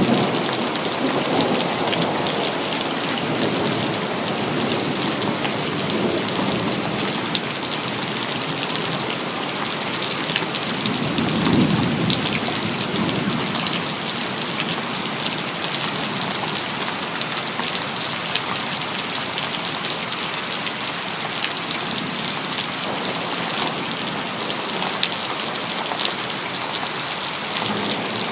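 Steady heavy rain falling on hard surfaces, a dense hiss of drops, with low rumbles of thunder near the start and another swelling about a third of the way in.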